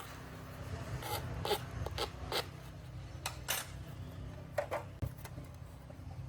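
Hand work on the tail light: a series of about nine short, irregular scrapes and clicks over a steady low hum.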